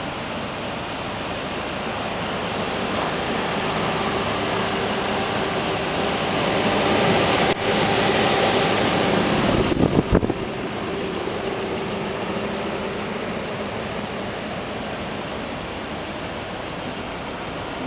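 Lexus GX's V8 idling with the hood open, with an electric cooling fan running in front of the radiator. The rush of air grows louder for a few seconds in the middle and ends with a few knocks about ten seconds in.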